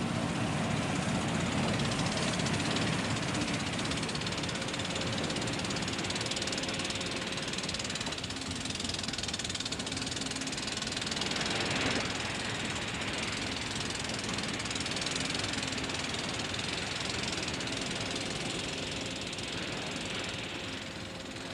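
Steady rumble and hiss of a warship under way, with a faint low engine hum and a brief swell of hiss about twelve seconds in.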